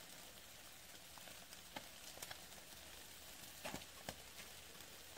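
Fish grilling over fireplace embers: a faint sizzling hiss with a handful of sharp crackles and pops, most of them in the middle of the stretch.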